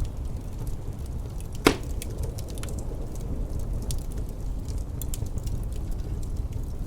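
Wood fire crackling with scattered small ticks and one loud, sharp pop about a second and a half in, over a low steady rumble of distant wind.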